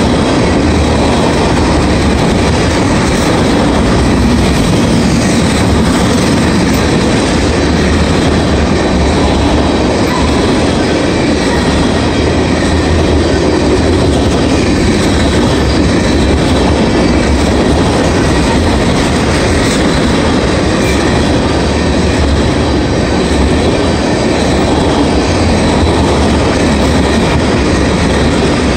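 Freight train of ethanol tank cars rolling past at speed: a loud, steady rumble of steel wheels on rail.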